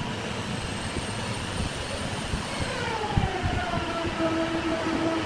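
Wood lathe running with a turning tool scraping the spinning workpiece. About three seconds in, a squealing tone falls in pitch and then holds steady.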